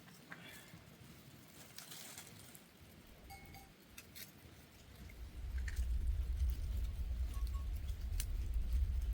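Livestock bells clinking now and then, with scattered small clicks. About five seconds in, a loud, deep low rumble sets in and carries on.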